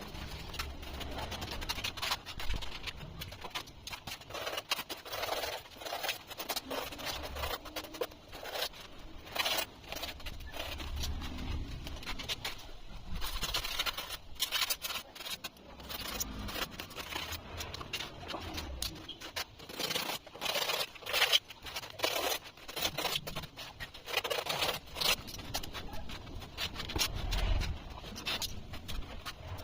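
Irregular scraping and scratching from hand work on thermocol (polystyrene foam), with scattered clicks and occasional low thumps from handling.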